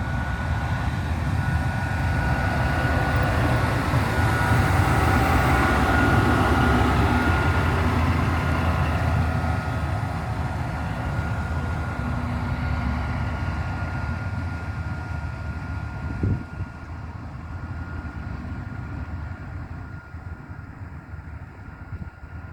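Diesel locomotive running light (no wagons) passing by: a heavy engine rumble with a steady high whine, loudest about five to eight seconds in, then fading as it moves away. A single knock about sixteen seconds in.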